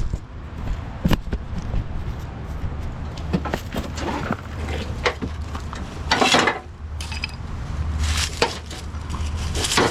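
Metal knocks, clanks and scraping as a mower deck's pulley assembly, blade still attached, is worked loose and slid out of the deck, with the longest scrape about six seconds in.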